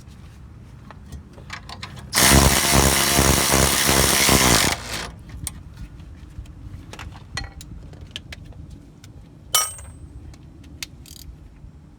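Impact wrench hammering in one burst of about two and a half seconds, running down a suspension nut. Light metallic clicks and clinks of tools follow.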